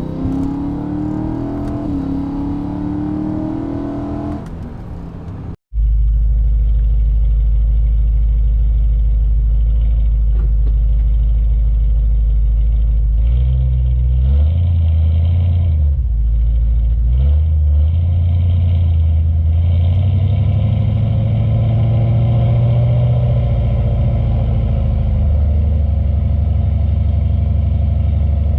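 BMW M3 engine and exhaust under way, its pitch rising and falling with the throttle. About six seconds in there is a sudden cut to a deep, steady engine drone whose pitch shifts up and down a few times.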